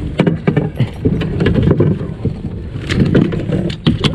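Rumbling noise aboard a fishing boat, with many sharp, irregular knocks and clicks.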